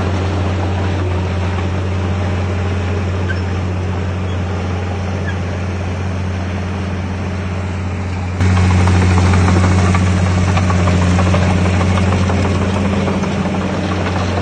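Diesel engine of heavy earthmoving equipment running steadily with a deep, even drone. About eight seconds in, the sound jumps abruptly louder.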